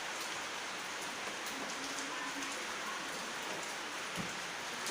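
A steady, even hiss like rain, with a few faint ticks.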